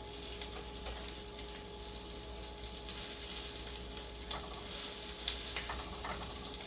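Italian sausage halves sizzling in a frying pan, a steady hiss with small pops and crackles here and there as they brown.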